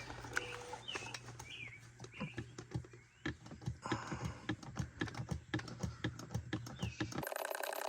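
Small hand oil pump being worked to push engine oil into the crankcase: a string of irregular clicks and squelches, with birds chirping now and then. Near the end the sound switches abruptly to a steady hiss.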